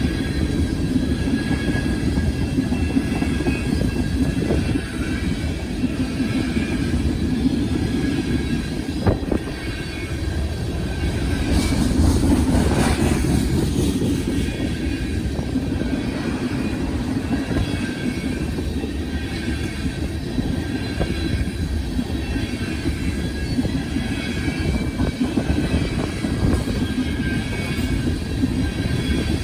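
Tank cars of a CSX ethanol freight train rolling past, with a steady rumble of wheels on rail and faint wheel squeal.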